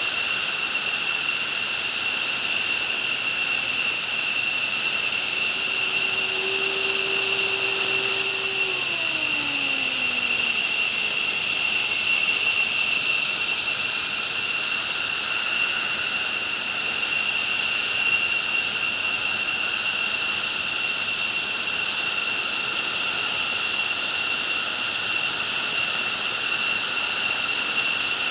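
F-15 jet engines running with a steady, loud, high-pitched whine. A short lower tone about six seconds in glides down in pitch a few seconds later.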